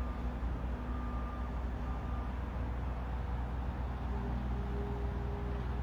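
Distant construction machinery running steadily as a low engine rumble, with a reversing alarm beeping a few times in the first two seconds.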